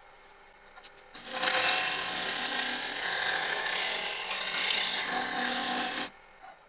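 A turning tool cutting into a spinning cherry bowl blank on the lathe: a steady, rough cutting noise starts suddenly about a second in and stops abruptly about five seconds later.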